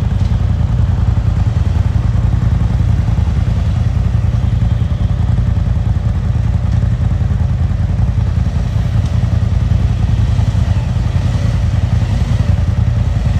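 Engine of a Polaris Ranger side-by-side utility vehicle running steadily under way, a fast low pulsing that holds an even level with no clear revs or stops.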